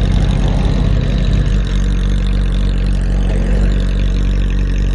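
Motorcycle engine idling steadily at a standstill, its low note shifting slightly a little under two seconds in.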